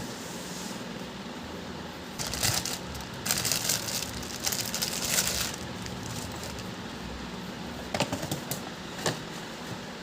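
Rustling and crinkling from things being handled, in bursts a couple of seconds in, then two short sharp clicks near the end, over a steady low room hum.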